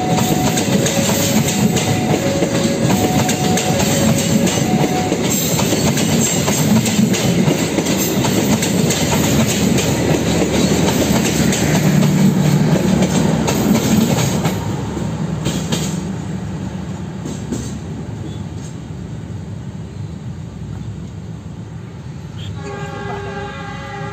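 Passenger train coaches rolling past close by, steel wheels clattering over the rail joints; the sound eases off a little past halfway as the tail of the train draws away. Near the end a steady multi-tone signal starts to sound.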